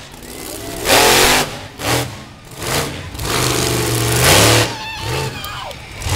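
Monster truck engine revving hard in short bursts, about four throttle blips with quieter running between them.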